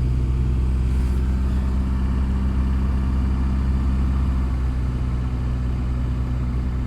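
1994 Honda Accord's four-cylinder engine idling steadily on a cold start at about minus 30 °C, the car having sat unplugged with no block heater.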